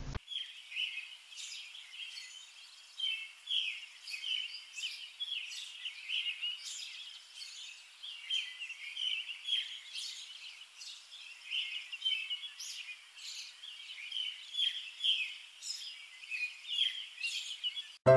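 Small birds chirping and twittering, a continuous run of short, varied high calls with no other sound under them.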